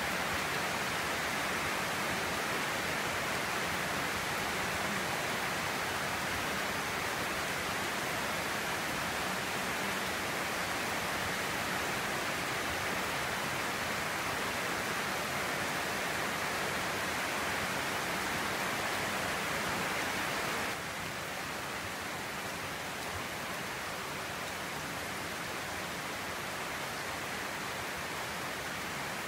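Steady rain falling on a roof: a dense, even hiss of drops. About two-thirds of the way through it drops a little in level all at once.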